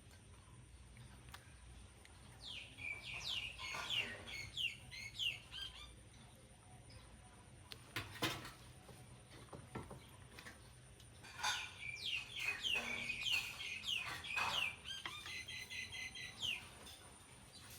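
Two runs of quick, high-pitched chirping calls, each note falling in pitch. The first run lasts about three seconds and the second about five. A single sharp knock falls between them.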